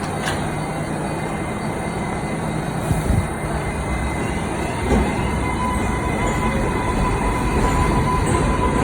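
R188 subway train running on the track, its rumble slowly growing louder, with two short thumps about three and five seconds in and a steady high whine joining about halfway.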